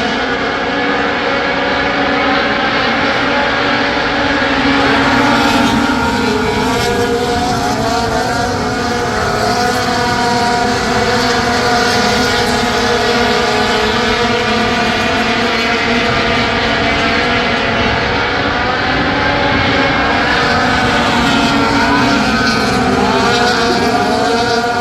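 A pack of sport-class race trucks running laps on a short oval track, several engines at high revs at once, their overlapping notes rising and falling as the trucks pass through the corners and straights.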